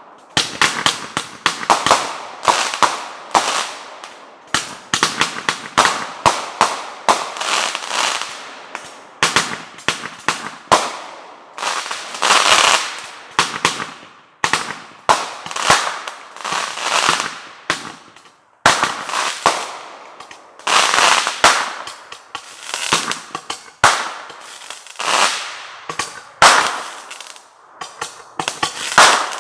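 Backyard fireworks going off in a dense barrage: sharp bangs several times a second, each trailing off in crackle and echo, with a few short lulls.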